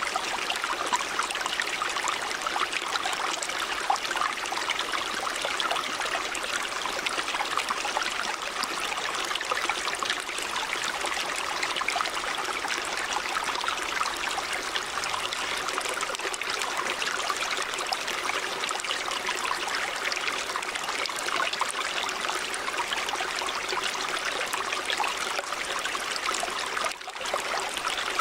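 River water running steadily, a continuous rushing and trickling with fine splashes and a brief dip in level near the end.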